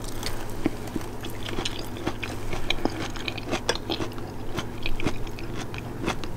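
A person chewing and biting food, with frequent small, irregular crunches and clicks.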